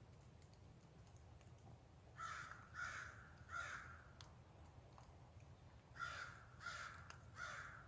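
A crow cawing: two series of three caws, the first about two seconds in and the second near the end.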